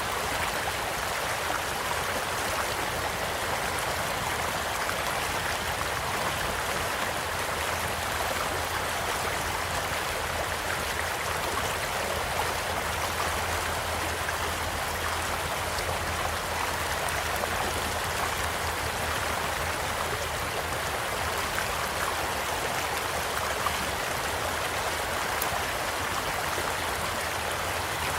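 Steady rushing of a small flowing stream, with a few faint pops from a crackling campfire.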